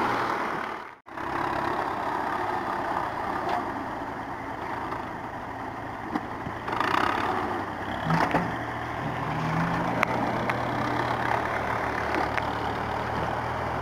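Tractor engine idling steadily, with the sound dropping out for a moment about a second in and a few light knocks later on.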